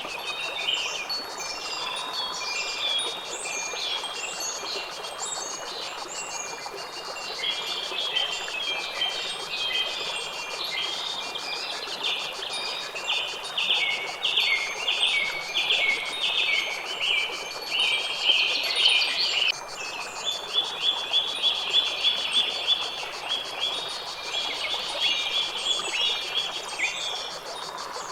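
Songbirds chirping and singing in quick repeated runs of short high notes over a steady background hiss.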